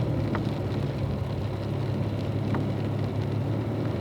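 Car cabin sound of a car rolling slowly on a wet track: a steady low engine hum under a constant hiss of rain and wet tyres, with two faint ticks about two seconds apart.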